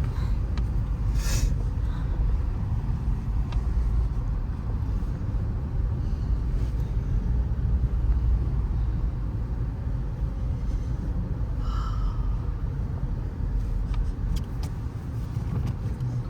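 Car driving, a steady low rumble of engine and road noise, with a brief hiss about a second in.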